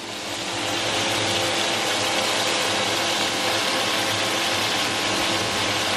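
Green beans and bacon sizzling in a frying pan as they are stirred, a steady hiss that builds over the first second and then holds.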